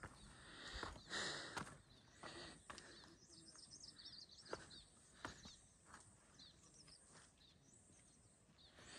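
Faint outdoor quiet with a small bird chirping a quick run of short, high calls in the middle, and a few scattered soft knocks.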